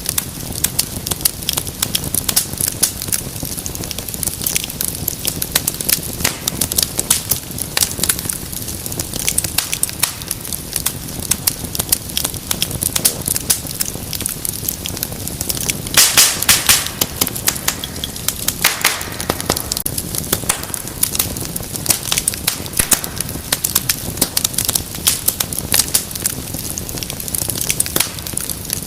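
Wood fire crackling and popping steadily, with a louder flurry of sharp pops a little past halfway through.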